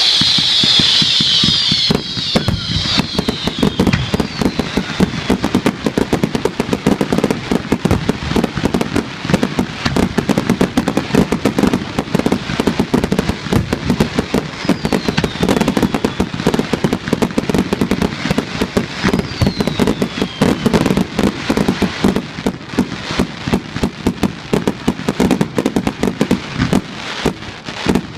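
Fireworks display going off in a dense rapid barrage of bangs and crackle. A few falling whistles run over it near the start and twice midway.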